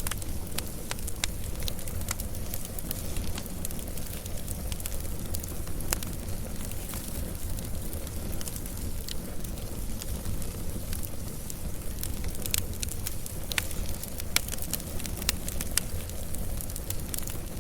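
Wood fire crackling: a steady low rumble of flames with frequent sharp pops and snaps scattered irregularly throughout.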